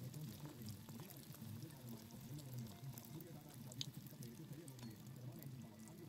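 Bread cubes deep-frying in hot oil in an iron wok, a faint sizzle with scattered small pops and crackles, as a spatula turns the pieces.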